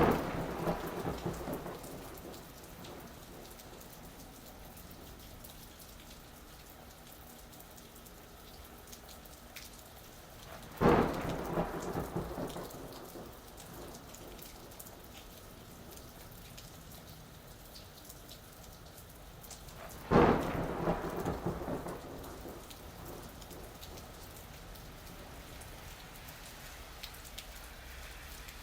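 Thunderstorm: steady rain falling, with three sudden claps of thunder about ten seconds apart, one at the start, one about 11 seconds in and one about 20 seconds in, each rumbling away over a couple of seconds.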